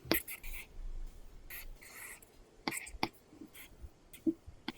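Apple Pencil tip drawing on an iPad Pro screen covered with a paper-like film: irregular short scratchy strokes mixed with sharp taps.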